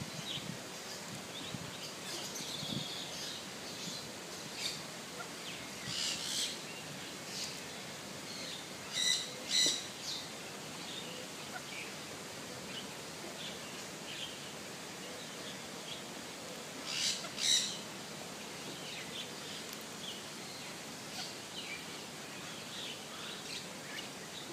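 Birds chirping and calling, with many small high chirps throughout and louder short calls in pairs about nine seconds and seventeen seconds in.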